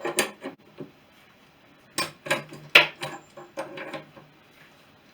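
Metal clinks and knocks of hand tools and engine parts being worked against each other. A few come at the start, then a cluster of sharp knocks about two to four seconds in, the loudest near three seconds.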